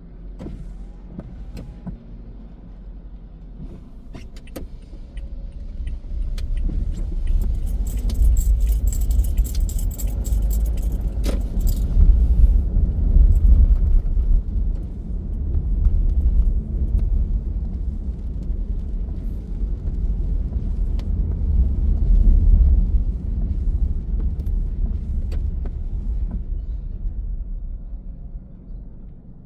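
Car driving, with a steady low road rumble that swells about six seconds in and eases near the end. A run of quick light clicks and jingles comes from about seven to twelve seconds in.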